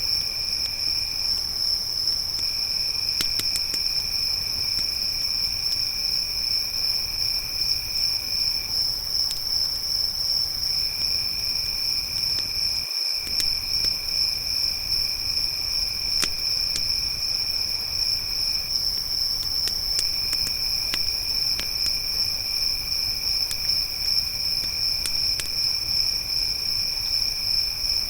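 Crickets chirring in a continuous high-pitched drone, with a second, lower-pitched insect trill that breaks off and resumes three times. Scattered sharp crackles and pops of a wood campfire sound over it.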